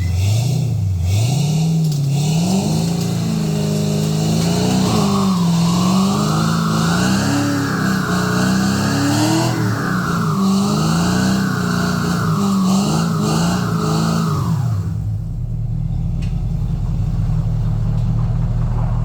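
LS V8 engine of a swapped 1981 Chevy C10 revving up and down repeatedly, then dropping to a steady low run for the last few seconds before cutting off suddenly.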